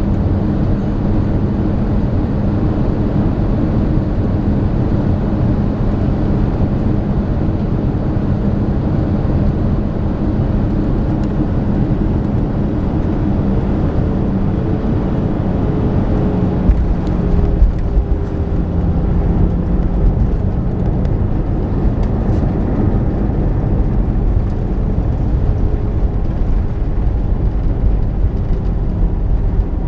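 Airbus A318 cabin noise on the approach: jet engines and airflow giving a steady rush with a low engine hum whose pitch shifts about halfway through, and a couple of brief knocks just past the middle.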